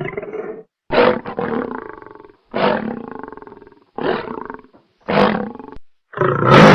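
A big cat roaring: a run of about five loud roars, roughly a second apart, each starting sharply and fading away.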